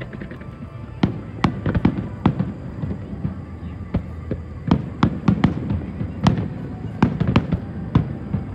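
Aerial fireworks bursting in a rapid, irregular series of sharp bangs over a steady low rumble.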